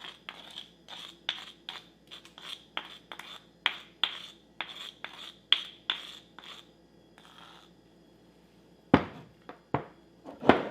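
Repeated scraping, about three quick strokes a second, as the marinade paste is scraped out of the mortar onto the chicken thighs. The scraping stops about two-thirds in, and two sharp knocks follow near the end.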